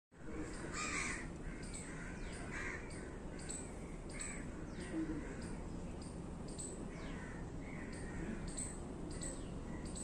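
Birds calling: a repeated lower call about once a second, with short high chirps that sweep downward mixed in.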